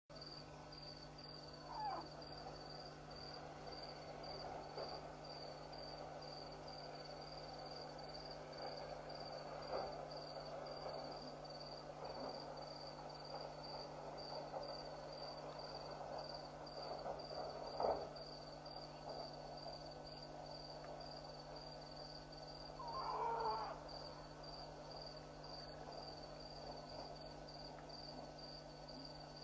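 Night bush ambience: an insect, likely a cricket, chirps in a steady high pulsing rhythm throughout over a low hum. A few brief louder sounds stand out: a sharp knock about 18 seconds in and a short call about 23 seconds in. The uploader takes these odd sounds for an elephant's shout and something mechanical.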